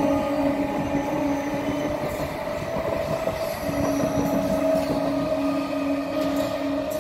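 EMU electric local train running past at speed: a steady rolling noise from the wheels on the rails, with a steady hum sounding over it.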